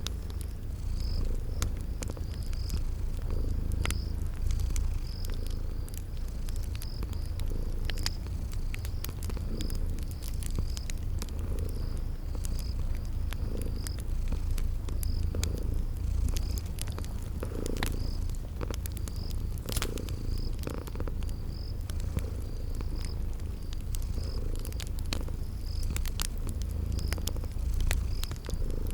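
Cat purring steadily, a continuous low rumble, over a crackling fire with scattered sharp pops. A cricket chirps high about once a second throughout.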